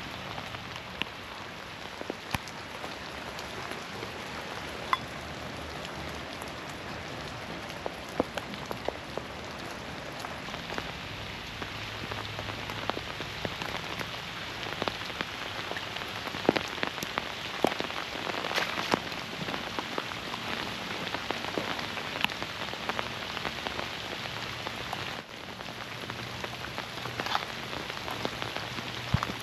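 Steady rain with many close, separate drops ticking through it. It grows a little louder about ten seconds in.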